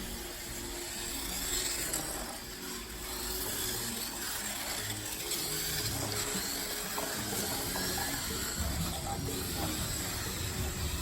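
Radio-controlled race cars running around a track, a busy mix of small electric motors and tyre noise with faint voices underneath.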